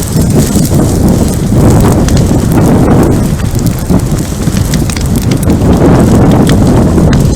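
Wildfire burning around the trail camera: a loud, continuous low roar that swells and eases in waves, with dense crackling and popping throughout.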